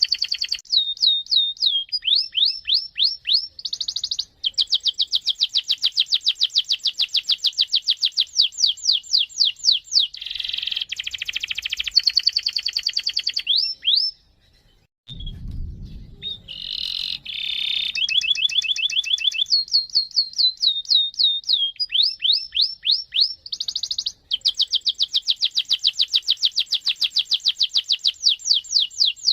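Domestic canary singing a long, unbroken rolling song: fast runs of rapidly repeated sweeping notes and trills, broken by a short pause about halfway through.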